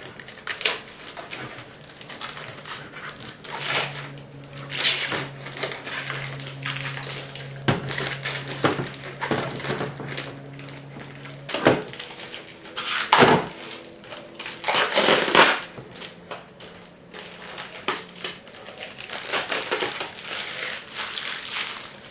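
Protective plastic film crinkling and rustling in irregular handfuls as it is peeled off a robot vacuum's charging dock, with a few louder swishes.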